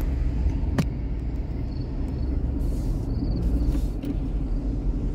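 Car driving, heard from inside the cabin: a steady low rumble of engine and road noise, with one sharp click about a second in.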